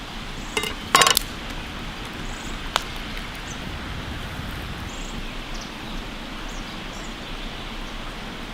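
Steady outdoor background noise, with a quick cluster of sharp clicks or knocks about a second in and one more sharp click a little before three seconds.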